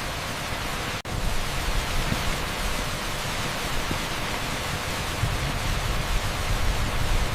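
Steady, dense hiss of heavy rain on a street, blended with pink noise. It cuts out for an instant about a second in.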